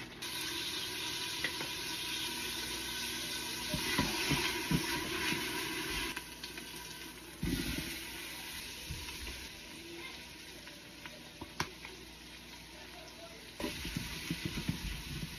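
Food frying and sizzling in the inner pot of an electric pressure cooker just after it is poured in, stirred with a wooden spatula that knocks and scrapes against the pot. The sizzle is strongest at first and slowly fades, with a cluster of knocks near the end.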